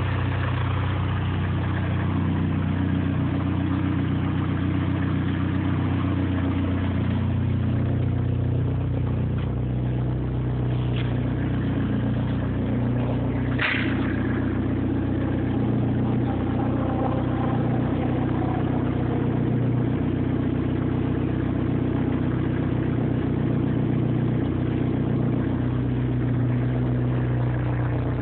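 Exhaust note of a tuned Nissan S14a running through a Tanabe aftermarket exhaust, holding a steady low idle with slight wavers in pitch. A single brief sharp click about halfway through.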